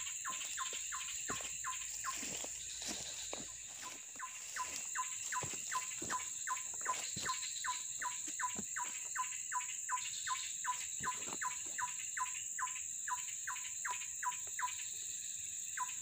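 A bird calling a steady, fast series of short falling chirps, about three a second, over a constant high drone of insects.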